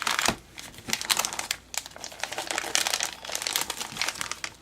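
Thin plastic crinkling and rustling as the pockets and small bags of a pocket letter are handled, in quick irregular crackles.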